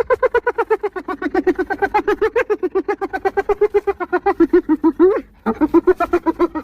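Spotted hyena giggling: a rapid run of short, pitched, stuttering notes, about nine a second and drifting slightly lower. The run breaks off briefly about five seconds in, then a new run starts.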